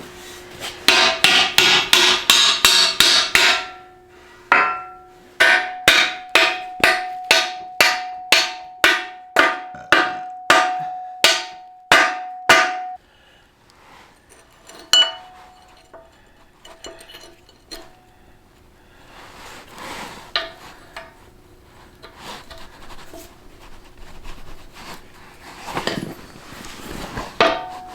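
A hammer driving a steel bucket pin into a mini excavator's bucket and arm linkage: a quick run of blows, then a steady series of about two ringing metal strikes a second for several seconds. Lighter clinks of metal being handled follow.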